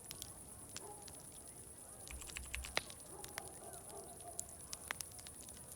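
Wood fire crackling, with irregular sharp pops, one louder pop about three seconds in. Under it, faint distant crowd chatter and a steady high-pitched chirring.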